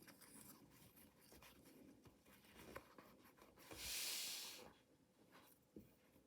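Quiet handling of mystery-box toy packaging: light rustles and small clicks, with one louder scratchy rasp lasting about a second a little past the middle.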